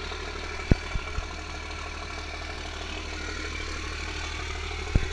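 First-generation Dodge Cummins 5.9-litre inline-six diesel idling steadily, with a few short knocks about a second in and again near the end.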